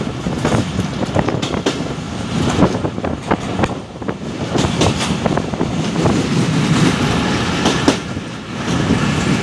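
Passenger train running along the line, heard from a carriage door: a steady rumble with the wheels clacking irregularly over rail joints.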